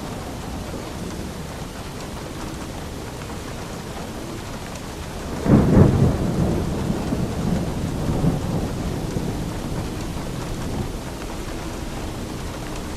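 Steady rain with a clap of thunder about halfway through that rumbles and fades away over several seconds.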